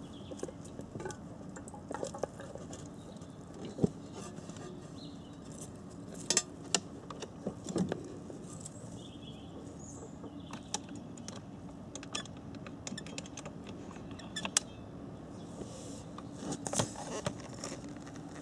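Irregular light clicks and clinks of small hard objects, with a few sharper knocks and a cluster of them near the end, over a faint steady hum.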